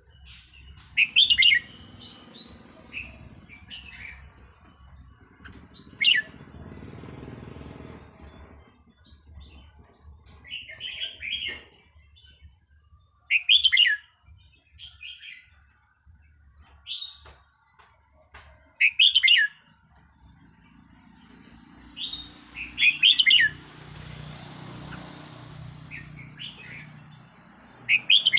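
Red-whiskered bulbul singing: short, bright, whistled phrases repeated every two to five seconds with pauses between.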